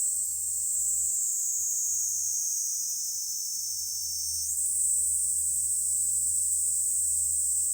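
A steady, high-pitched chorus of summer insects, stepping slightly higher in pitch about four and a half seconds in, over a faint low hum.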